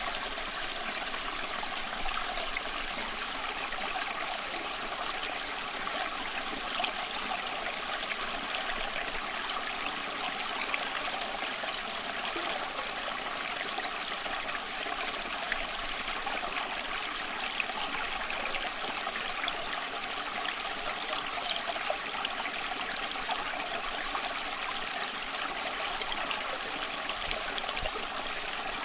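Small stream of water running and trickling steadily, with small splashes scattered through it.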